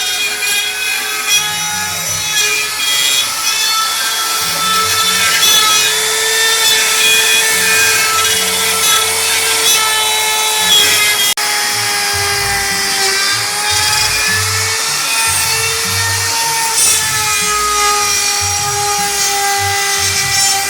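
A CNC router spindle running steadily while it cuts a fishing lure blank. It gives a high whine that sags a little in pitch now and then, over the hiss of the cutting.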